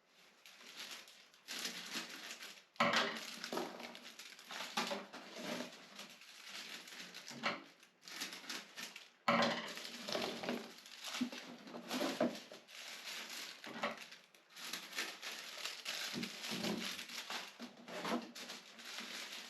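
Plastic packaging of flower bulbs crinkling and rustling on and off as it is cut open and the bulbs are pulled out, with sharper crackles about three and nine seconds in.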